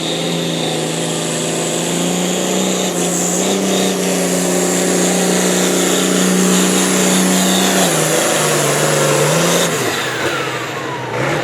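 A pulling vehicle's engine running loud at high, steady revs under load, the pitch creeping slightly upward. About eight seconds in the revs dip and waver, then fall away near the end as it comes off the throttle.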